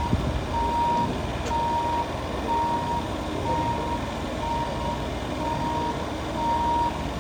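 Backup alarm of a reversing work vehicle, a single-pitch beep repeating about once a second, over the low rumble of its engine running.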